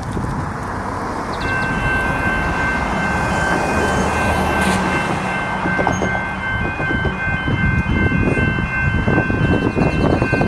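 Melbourne Metro electric suburban train passing over a level crossing, its rumble building steadily, with a steady high whine from about a second and a half in and wheel clicks over the rail joints growing denser in the second half.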